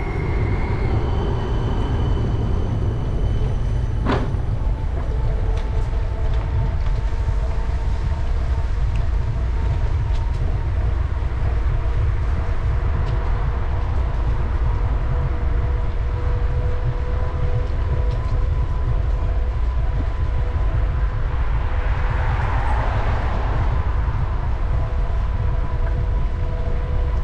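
Heavy low wind rumble on the microphone of a moving bicycle, over steady street noise with a faint high hum of several held tones and a single sharp click about four seconds in.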